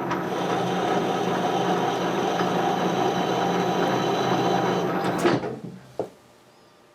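Metal lathe running under power during a thread-cutting pass on a lead screw, a steady motor hum with cutting noise. About five seconds in there is a sharp clunk as the lathe is stopped with the lever and brake, and the sound dies away quickly, followed by a single click.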